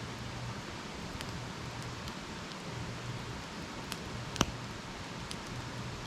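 Wood campfire burning with a steady hiss and scattered crackles, and one sharp, louder pop a little over four seconds in.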